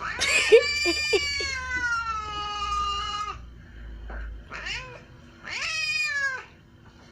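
Domestic cat meowing: one long, drawn-out meow of about three seconds that sinks slightly in pitch, then a brief cry and another meow of about a second.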